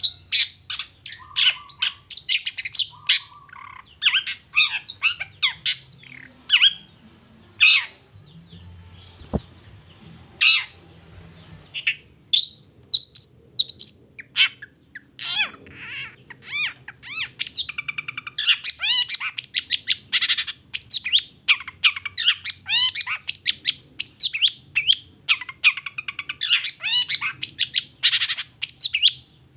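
Long-tailed shrike (cendet) singing a fast, varied run of harsh chattering notes, squawks and whistled phrases. It shows off its repertoire of learned song material and is at its busiest in the second half.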